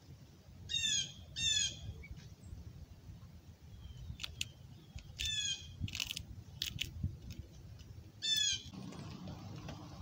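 A bird giving four short calls: two close together near the start, one about halfway through and one near the end. A few sharp clicks fall between them.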